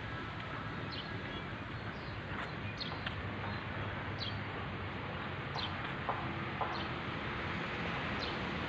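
A small bird giving short, high chirps that each fall in pitch, about eight of them at uneven intervals, over a steady low outdoor background noise.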